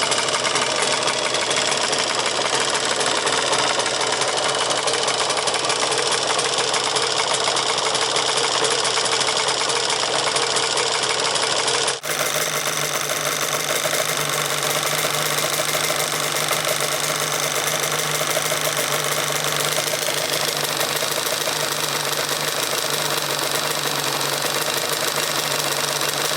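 Yamaha RZ250's liquid-cooled two-stroke parallel-twin engine running steadily with an abnormal noise, which the owner takes as the sign of a worn-out piston after an earlier partial seizure.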